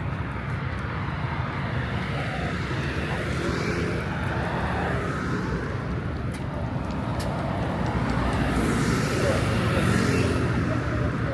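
Busy city traffic ambience, a steady rumble of vehicles with the hiss of tyres. One vehicle passes close, growing louder from about eight seconds in and easing off near the end.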